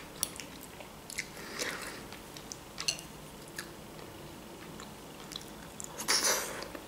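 Soft chewing and wet mouth sounds, with a few small sharp clicks. About six seconds in comes a louder bite as a forkful of stewed eggplant with vegetables goes into the mouth.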